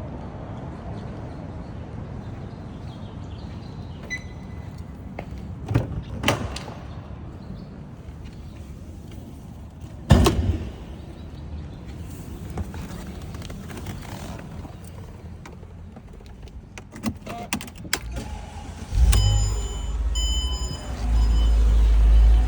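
Several clicks and knocks, then about nineteen seconds in the 2006 Mercedes-Benz CLS500's 5.0-litre V8 cranks, fires and settles into a steady idle, with short beeps as it starts.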